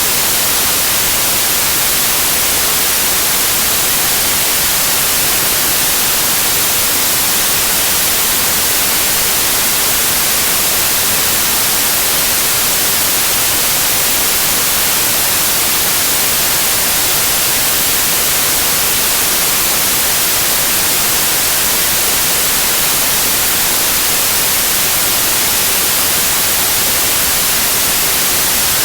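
Steady white noise like television static: an even, unchanging hiss, brightest in the high end.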